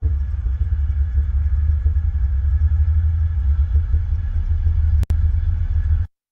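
Freight train passing, heard as a steady deep rumble with a faint hiss over it through a remote wildlife camera's microphone. The sound drops out for an instant about five seconds in and cuts off just after six seconds.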